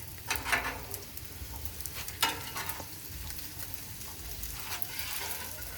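Fried rice sizzling on a Blackstone flat-top griddle as metal spatulas mix it, scraping and clacking against the steel plate. A few sharper scrapes stand out near the start and about two seconds in.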